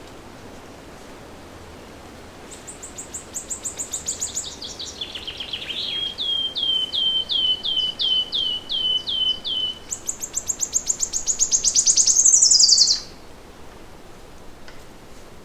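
A songbird singing one long song over a faint steady hiss. It opens with a quick run of high notes that step downward, moves into a row of repeated down-slurred notes at about three a second, and ends with a loud, fast high trill that drops away in a falling sweep.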